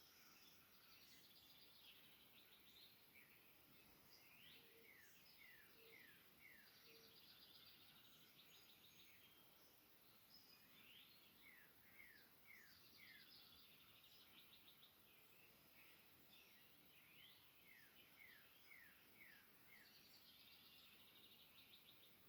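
Faint birdsong: a bird repeats the same phrase about every six seconds, a fast rattling trill followed by four short descending notes, with other faint chirps around it. Three short low notes sound about five seconds in.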